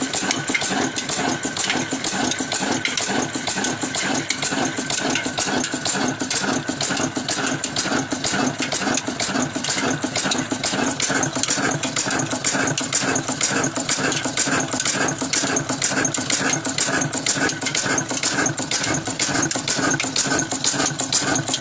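Antique engine running steadily with a rapid, even beat.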